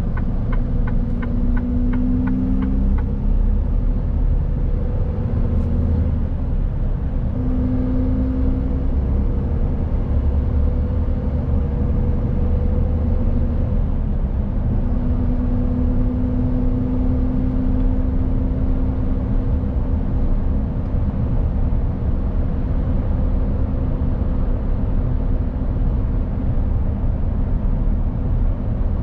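Mercedes-Benz Actros truck driving along, its diesel engine running at a steady drone over a low road rumble. A quick series of light ticks comes in the first few seconds.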